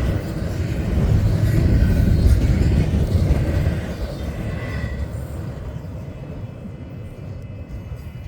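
Union Pacific double-stack freight train rolling past, a low rumble of wheels on rail. It swells about a second in and fades away after about five seconds. Faint steady high tones come in near the end.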